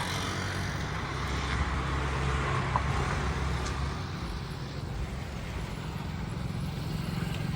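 Steady road-traffic noise: a low vehicle rumble with a broad hiss over it.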